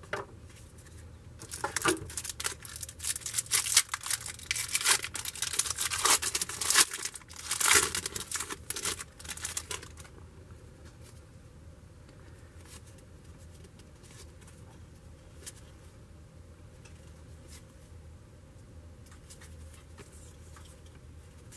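A trading-card pack wrapper being torn open and crinkled in the hands, a dense crackling rustle for about the first ten seconds, then only faint occasional handling ticks.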